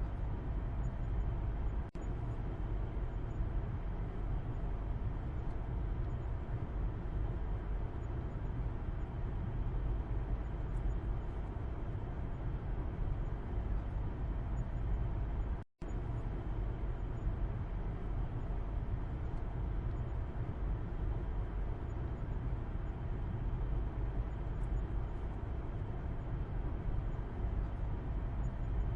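Car interior road noise heard from the back seat while driving: a steady low rumble of tyres and engine. The sound cuts out for a split second about halfway through.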